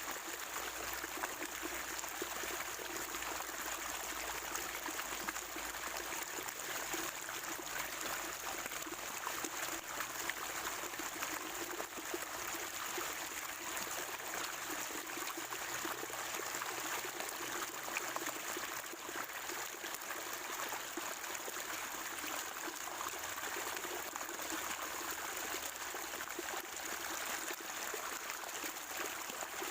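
Natural spring water trickling and gurgling over a small stream bed, a steady even flow. A faint, steady high-pitched hiss runs above it.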